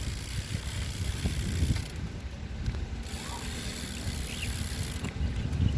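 Bicycle ride: a BMX rolling along, with an uneven low rumble of tyres and wind on the microphone.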